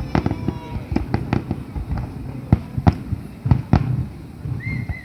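Aerial fireworks bursting in quick succession: a dense run of sharp bangs and crackles, the loudest booms coming about two and a half to four seconds in.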